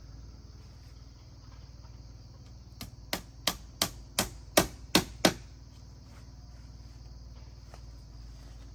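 Hammering on wood: about eight sharp blows in quick succession, a little under three a second, starting about three seconds in.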